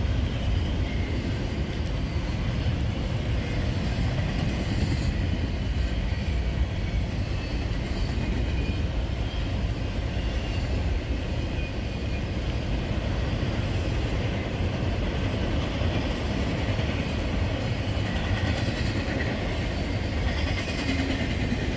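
Norfolk Southern freight train rolling past: a steady rumble of wheels on rail.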